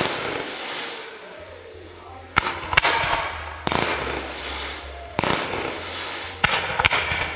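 Fireworks display: about seven sharp bangs of shells and comets going off, some in close pairs, each followed by a hissing tail that fades over a second or two.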